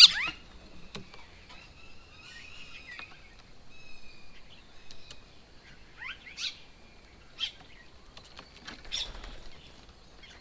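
Wild birds calling: a loud cluster of quick chirps right at the start, then faint warbling and single sharp chirps every second or two.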